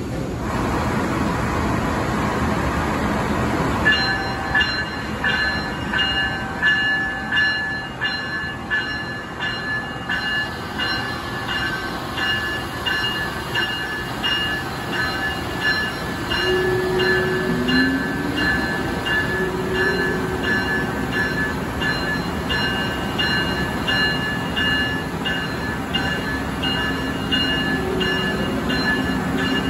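Amtrak Siemens ACS-64 electric locomotive pulling a train slowly out of the station with a steady low rumble. From about four seconds in, a bell rings with even repeated strikes, a little more than one a second. Short rising motor tones come through about halfway and again near the end.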